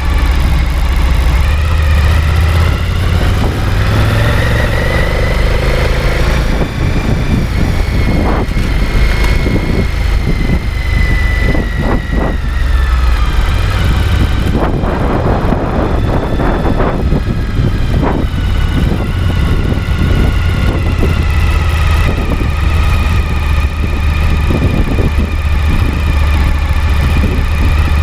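Suzuki V-Strom 1050XT's V-twin engine running steadily with a continuous low rumble, its pitch drifting slightly now and then.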